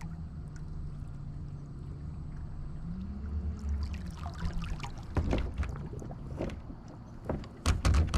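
Electric trolling motor on a kayak running with a steady low hum that rises in pitch about three seconds in and settles back. Water splashes and knocks in the second half, loudest near the end.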